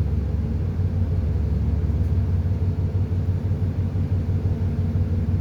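A ship's engine running with a steady, low drone.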